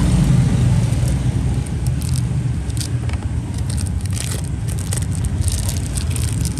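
Small clicks, scrapes and rustles from a Zippo lighter and its box being handled, over a steady low rumble of passing road traffic.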